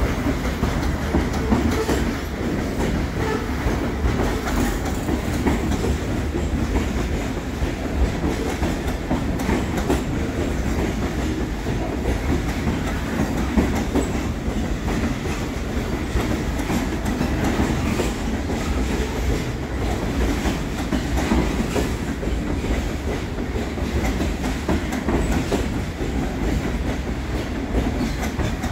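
Freight train's covered hopper cars rolling past steadily, steel wheels on rail giving a continuous low rumble broken by frequent short clicks.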